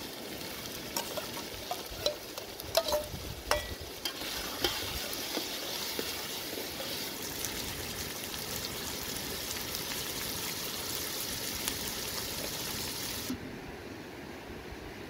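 Chopped tomatoes, onions and green peppers sizzling in hot oil in a metal pot over a fire. A metal ladle knocks and scrapes against the pot several times in the first few seconds as the peppers go in and are stirred. The sizzling cuts off suddenly near the end, leaving a steady rushing background.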